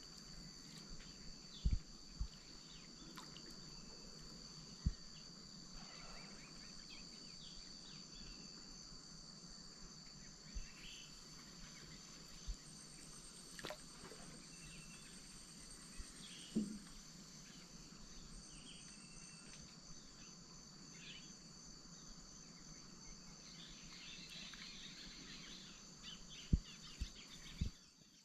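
Amazon wetland ambience: a steady, high-pitched chorus of insects, with scattered short calls from birds or frogs. A few soft low knocks come through, several close together near the end.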